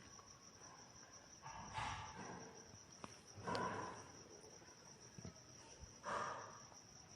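Faint background hiss with a steady, thin high-pitched whine, and three soft, short puffs of noise about two seconds apart.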